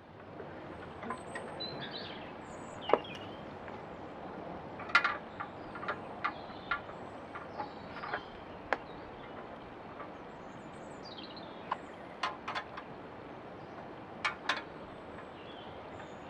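Scattered sharp metal clicks and knocks from hand tools and parts being handled during the wood chipper's disassembly, over a steady outdoor background hiss with faint bird chirps.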